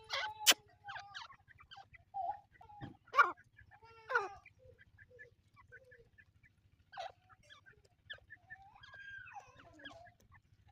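Teetar (francolins) calling: scattered short clucking notes broken by a few sharp, loud calls, with a gliding call near the end.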